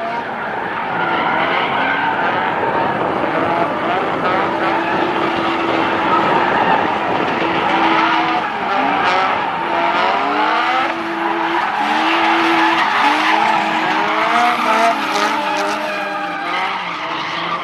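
Drift cars on track: engines revving up and down and held at high revs, over a continuous tyre squeal and skidding.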